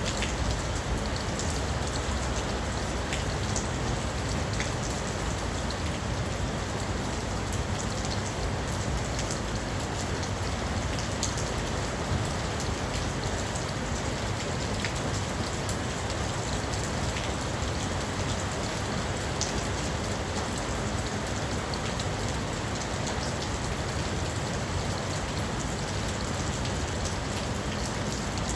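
Heavy rain falling steadily, a dense even hiss with many small drop impacts pattering on surfaces.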